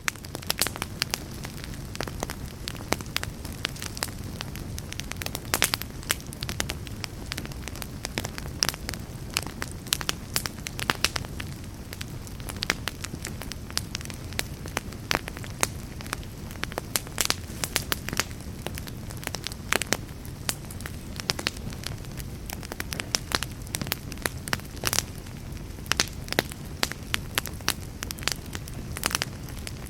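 Wood fire burning in a fireplace, logs crackling: many sharp irregular pops and snaps over a steady low rumble of the flames.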